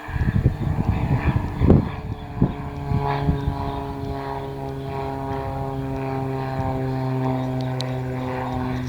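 Propeller airplane engine droning with a steady, even pitch as the plane flies past. It is joined in the first three seconds by irregular rumbling wind noise on the microphone.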